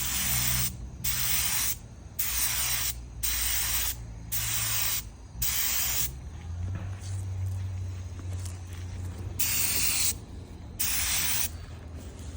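LVLP paint spray gun hissing in repeated short bursts as the trigger is pulled and released, with one longer unbroken pass in the middle, atomizing paint at about 28 PSI through a 1.4 tip.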